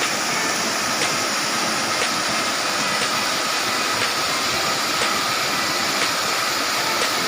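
Waterfall's steady rush of falling water, with faint clicks about once a second.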